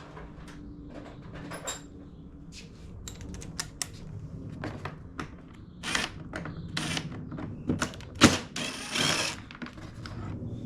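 Hand tools and small parts clicking and clattering during work on a generator case: a run of irregular sharp clicks and knocks, the loudest about eight seconds in followed by a short scrape, over a low steady hum.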